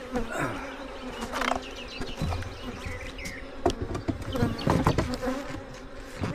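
Honeybees buzzing in a steady hum around an open hive, a colony the beekeeper finds agitated and aggressive, with scattered short knocks and clicks throughout.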